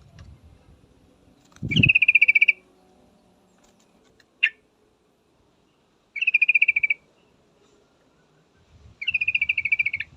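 Yellow-vented bulbul calling three times, each call a quick stuttering run of chattering notes lasting under a second. A single short note falls between the first two calls, and a low thump comes with the first.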